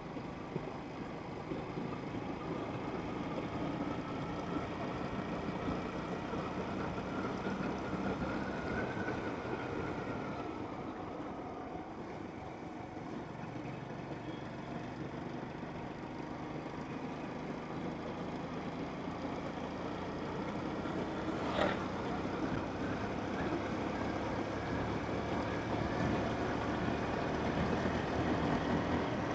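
Motorcycle engine running steadily under way, with wind and road noise; the engine note rises slightly and eases back about a third of the way in. A single sharp click or knock about three quarters of the way through.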